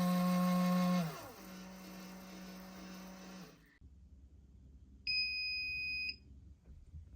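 Small electric motor of an electronic powder dispenser running, dropping to a slower speed about a second in, then stopping; a second or so later a single steady electronic beep about a second long signals the powder charge is done.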